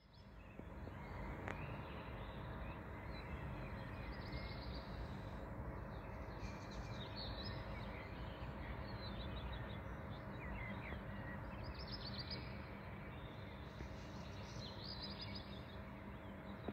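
Songbirds singing, short high twittering phrases repeating every second or two, over a steady low background hum.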